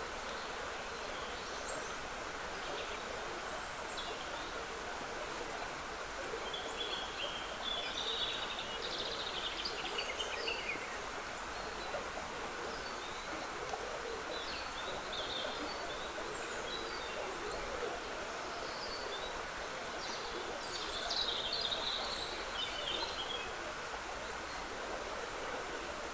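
Steady trickling of a woodland stream, with songbirds singing in short phrases over it, the busiest bursts of song about a third of the way in and again near the end.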